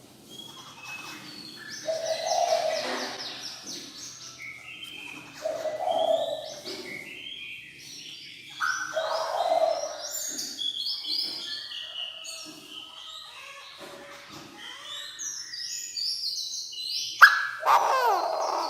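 Chinese francolin decoy bird calling loudly and repeatedly, one call about every three and a half seconds, with higher chirping notes in between. A louder, sharper call with falling notes comes near the end.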